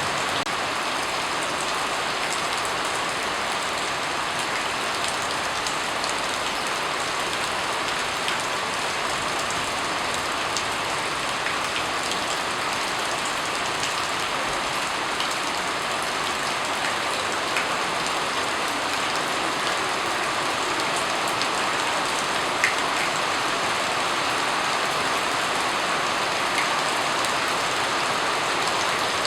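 Steady rain falling: an even hiss with scattered sharper raindrop ticks, one a little louder about 22 seconds in.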